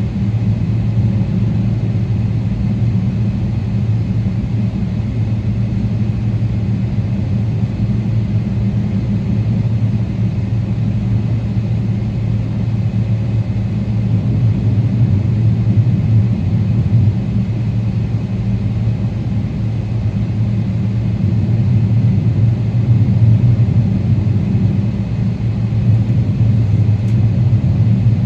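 Steady low hum and rumble of a Boeing 777-300ER's GE90 engines and airframe, heard inside the passenger cabin.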